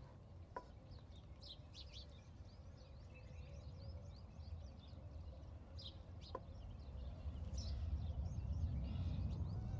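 Outdoor birds chirping and twittering in short scattered calls over a steady low rumble that grows a little louder toward the end, with two faint clicks.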